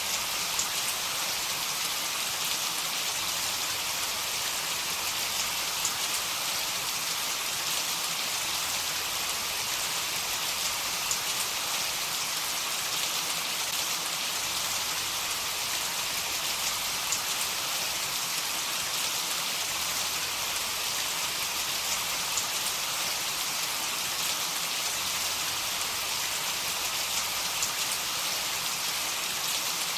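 Heavy rain falling steadily: an even hiss of rain with faint scattered drop ticks.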